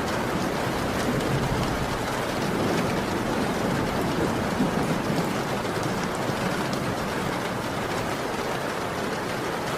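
Heavy rain falling steadily, with a low rumble of distant thunder swelling in the first half.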